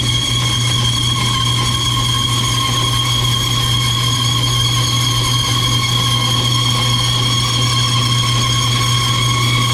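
Bandsaw running steadily while cutting one face off a 1-inch square tube: a steady low motor hum under an even, high whine from the blade in the metal.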